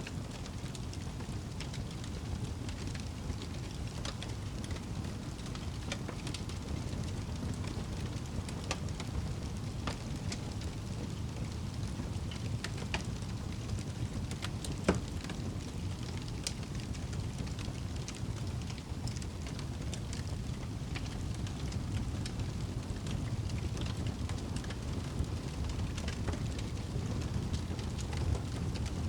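Wood fire burning in a fireplace: a steady low rumble of flame with scattered small crackles, and one louder pop about halfway through.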